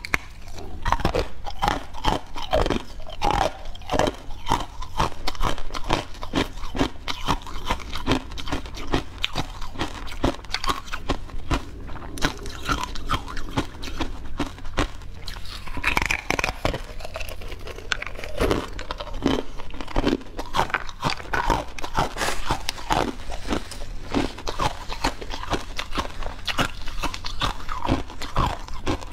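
Close-miked biting and chewing of a crunchy yellow grid-patterned cake: wet chewing with many small irregular crunches and crackles, picked up right at the mouth by a lapel microphone.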